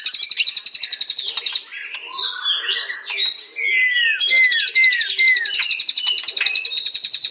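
White-rumped shama (murai batu) singing: a very fast, high trill of repeated notes stops about a second and a half in, gives way to a jumble of varied whistled notes, then four downward-slurred whistles in a row as the fast trill starts again and runs on.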